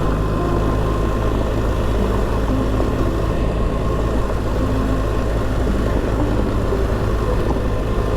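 BMW R 1300 GS boxer-twin engine running at a steady pace on a gravel forest trail, with tyre and wind noise on the bike-mounted microphone.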